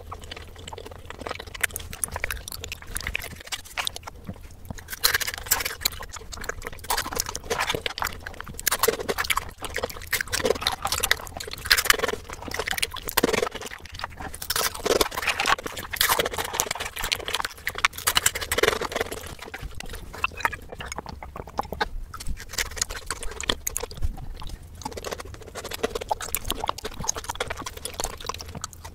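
Close-miked chewing and mouth sounds of eating chocolate snacks and Nutella-dipped breadsticks: a dense, irregular run of crunches, smacks and wet clicks, played back sped up.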